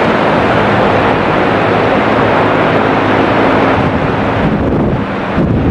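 Loud, steady rushing of heavy rain and strong wind on the microphone, with a low drone of jet airliner engines under it, easing slightly near the end.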